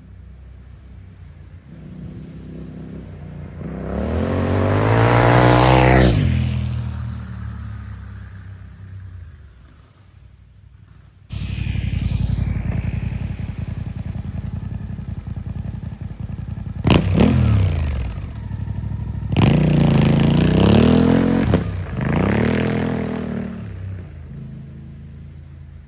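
Suzuki V-Strom 800DE parallel-twin with a Dominator slip-on exhaust riding past: the note climbs as it approaches and drops sharply as it passes, about six seconds in, then fades away. After a cut, the bike idles close up and is revved three times, one rev held for about two seconds.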